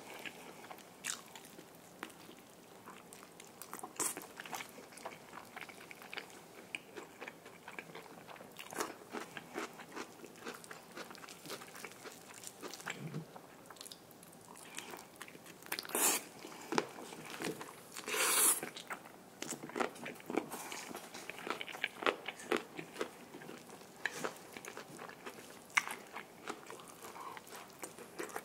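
Close-miked biting and chewing of crispy Korean fried chicken: many short crunches of the fried crust, with the loudest crunches about sixteen and eighteen seconds in.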